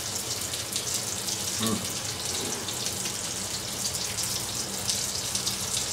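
Schnitzels frying in a pan of clarified butter, a steady sizzling hiss with a low hum underneath.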